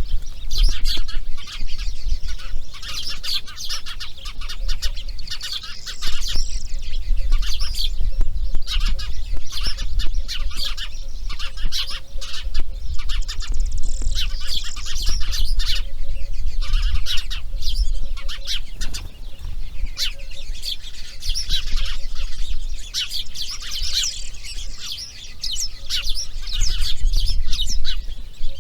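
Birds calling: a continuous dense chatter of short, rapid, high calls, over a steady low rumble.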